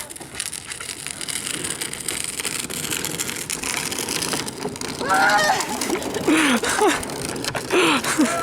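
A steady rushing, scraping noise, with a person shouting without words several times over it in the second half.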